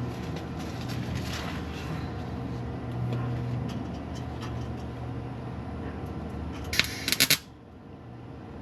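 Steady low electrical hum, then a loud, short burst of crackling arc noise about seven seconds in, cutting off sharply: a MIG welder laying a quick tack on the exhaust pipe.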